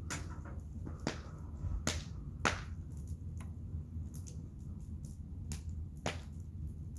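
Wood fire crackling, with sharp irregular pops, the loudest about two and a half seconds in, over a steady low rumble.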